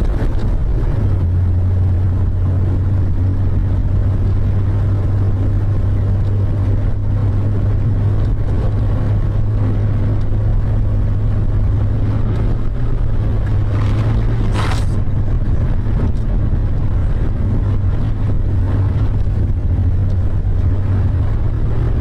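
Steady running noise of a road vehicle, a constant low drone with road noise over it, broken by one brief sharp sound about fifteen seconds in.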